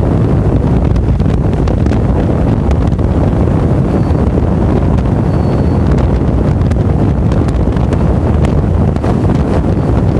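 Wind buffeting the microphone of a camera riding along on a moving motorcycle: a loud, steady, low rumble of wind and road noise.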